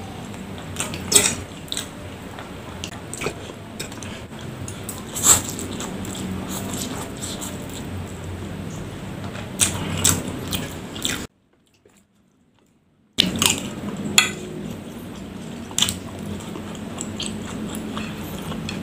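Close-miked chewing of fried instant noodles and chewy cilor, with a handful of sharp clinks of metal cutlery against the plate. The sound drops out completely for about two seconds a little past the middle.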